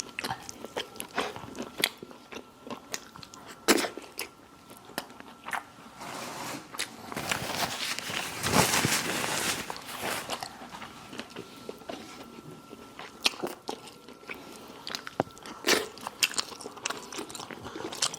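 Biting into and chewing crispy fried chicken, with sharp crunches scattered throughout and a longer, denser stretch of crunching near the middle.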